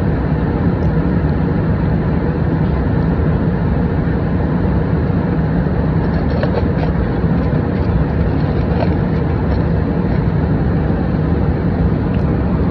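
Airliner cabin noise in flight: a steady, even rush of engine and air noise, heaviest in the low end.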